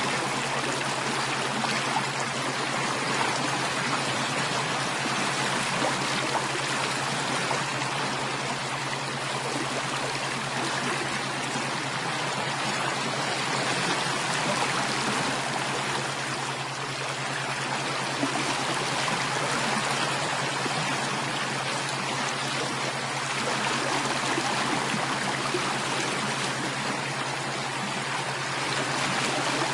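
Flowing stream water, a steady rushing and trickling with no pauses, over a constant low hum.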